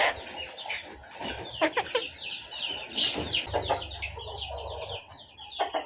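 A talking pet bird chattering: a quick run of short, falling chirps, several a second, after a few louder calls.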